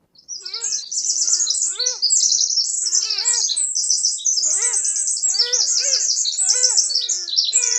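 Birds calling together: a dense, continuous high twittering, with short rising-and-falling calls from a lower-voiced bird repeated about twice a second.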